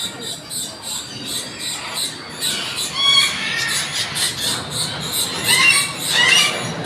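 Birds calling over and over with short, high-pitched squeaks and squawks, over a steady background noise.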